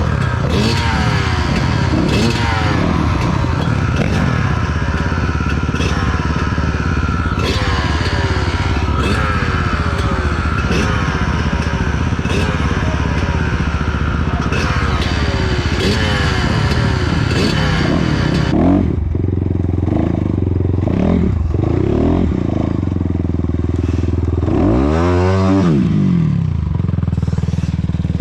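A 250cc dirt bike engine being ridden, its revs rising and falling over and over. About two-thirds of the way through the sound turns duller, and near the end there is one deep swoop in pitch as the revs drop and climb again.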